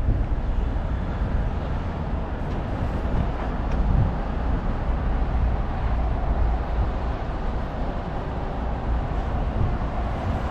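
Wind rumbling on the microphone together with road noise from a bicycle ride, a steady low rumble with no distinct events.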